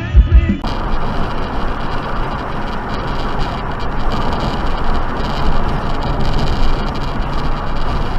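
Steady noise of a car driving, with road and engine sound and no sharp impacts. About half a second in, it cuts in abruptly after the end of a stretch of music.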